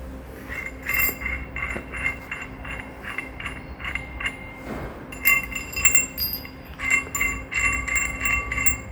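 Metal clinking and ringing as steel sawmill bed parts and tools are handled during assembly: scattered strikes at first, then quick runs of clinks about five seconds in and again near the end.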